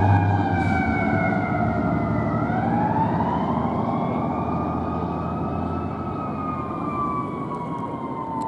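Fire engine siren wailing over the truck's engine rumble. Its pitch slides slowly down, then turns and rises again about two and a half seconds in. The siren grows steadily fainter as the truck moves away.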